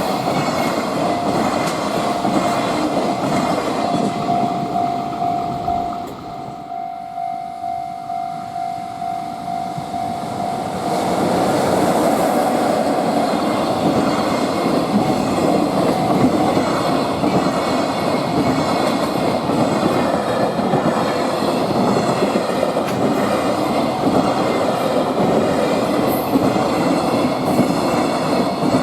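Freight train passing close by, its wagons' wheels clacking rhythmically over the rail joints. The sound dips a little about a quarter of the way in, then grows louder again. A steady high tone runs through the first half.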